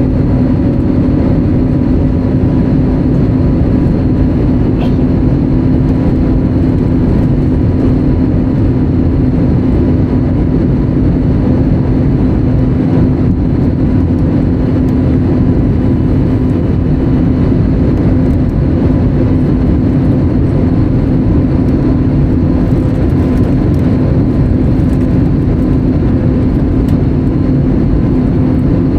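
Steady engine and airflow noise heard inside the cabin of an Airbus A320neo, loud and unchanging, with a steady hum running through it.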